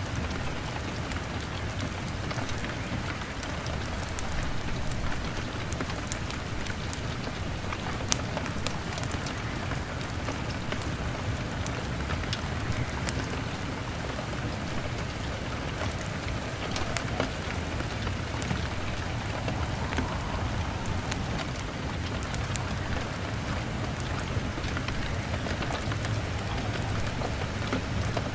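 Steady rain on window glass, mixed with scattered sharp pops and clicks of a crackling fire.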